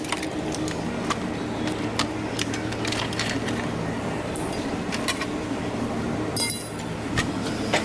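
Scattered light clinks and taps of tools and bumper parts being handled, over a steady low hum.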